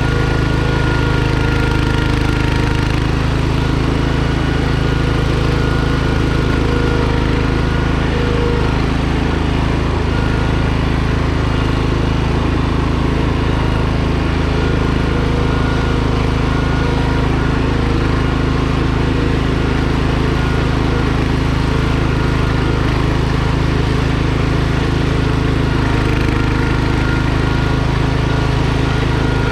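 Small garden tractor engine running steadily at a constant speed.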